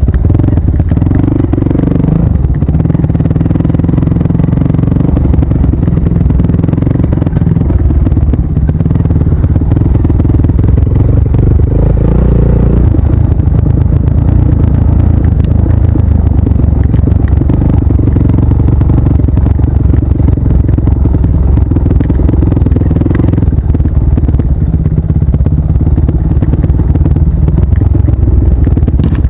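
Off-road trail motorcycle engine running loudly and unevenly, its pitch shifting a few times as the throttle changes, with some rattling.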